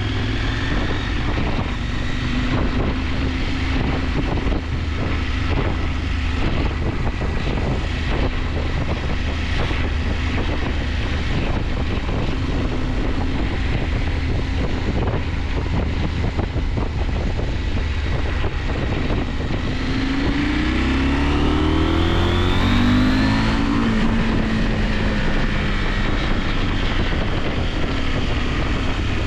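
KTM 890 Adventure's parallel-twin engine running on the move under a steady rush of wind noise. About twenty seconds in, the engine revs up in a rising pitch as the bike accelerates, then drops back at a gear change.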